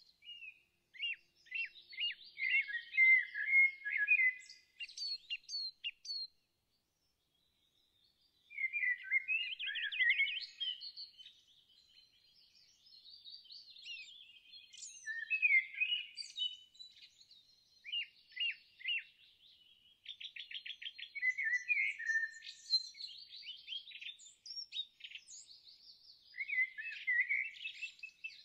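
Songbirds singing: bursts of chirps, whistles and quick trills, broken by a pause of about two seconds some six seconds in.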